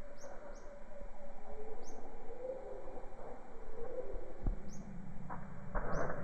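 Jungle birds chirping: short, high chirps, often in pairs, every second or two over a lower, wavering chorus of calls. There is a single knock partway through and a brief rustle near the end.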